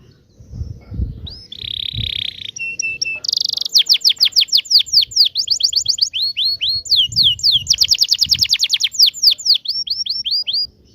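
Domestic canary singing: a short buzzy note, then a long rolling trill of rapid, downward-sweeping whistles in several runs that change speed and pitch. The song breaks off abruptly near the end.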